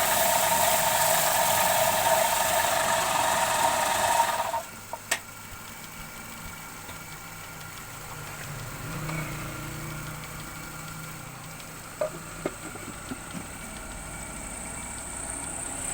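Wood lathe's electric motor running with a steady whine, which cuts off sharply about four and a half seconds in. After that only a faint low hum remains, with a few light clicks.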